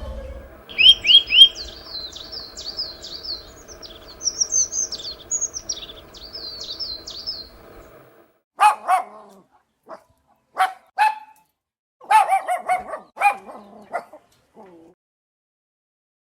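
A small bird chirping in quick runs of short high notes for several seconds. Then a dog barking several times in short bursts.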